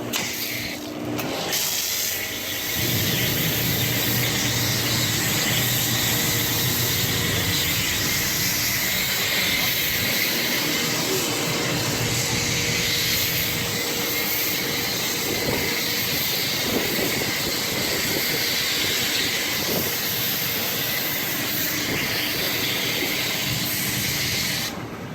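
Pressure washer with a dual foamer on its wand, spraying soap foam in a steady loud hiss. The spray starts about a second and a half in and cuts off shortly before the end.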